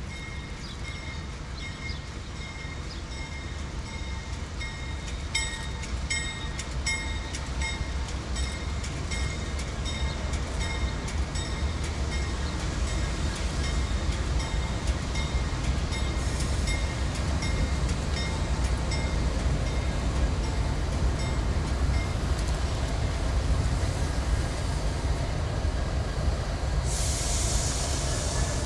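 Train passing, its low rumble growing steadily louder, with a regular series of clicks from wheels over the rail joints in the middle and a short burst of hiss near the end.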